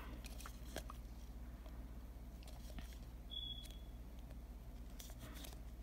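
Faint small clicks and light handling noises of self-adhesive nail decals being peeled from their sheet with tweezers, with a cluster of clicks near the end, over a steady low hum.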